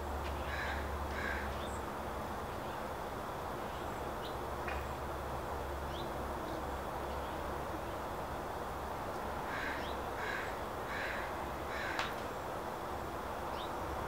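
Wild birds calling over steady outdoor background noise. Two harsh calls come near the start, and a run of four evenly spaced harsh calls comes about ten seconds in. Thin, high chip notes are scattered through, with a sharp tick about twelve seconds in.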